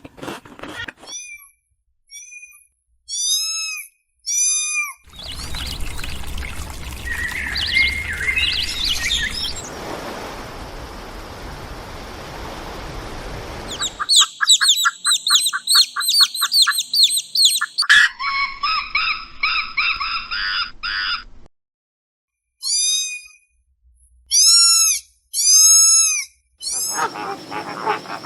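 Bird calls in several separate short takes with silent gaps between them: short arched chirps, a fast trilling run of calls, then more single chirps.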